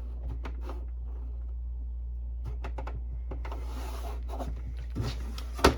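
Steady low hum of a dehumidifier running, with scattered light clicks and knocks of a plastic printer being handled, a rustle about three and a half seconds in and a sharp click near the end.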